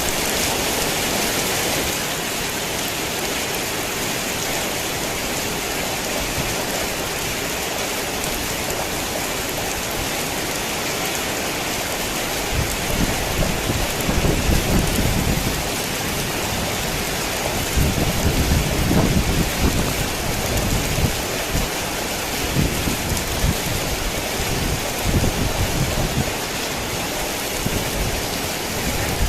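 Heavy rain falling steadily, with low rolling thunder rumbling in from about halfway through and coming back in several surges near the end.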